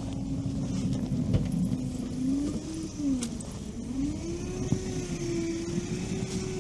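Engine of a Veter tracked-style all-terrain vehicle running steadily. Its revs dip briefly about three seconds in, then rise and hold higher, with a few light knocks.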